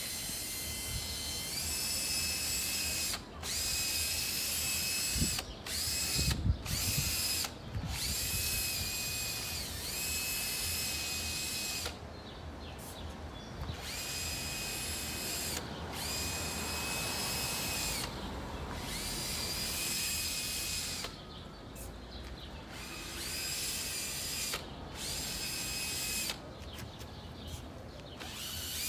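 Small electric motor of a powered spray bottle running in repeated bursts of one to four seconds, each a high whine that rises as it starts and drops away as it stops, as cleaner is sprayed onto a motorcycle fairing. A few knocks around six seconds in.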